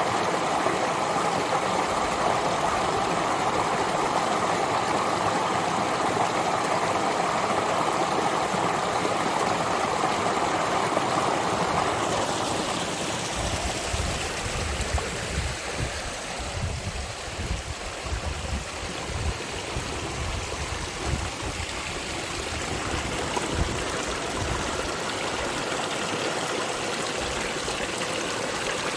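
Spring water rushing and trickling over rocks as a stream, a steady noise. About halfway through, the water sound turns softer and less full, and irregular low rumbling comes and goes for several seconds.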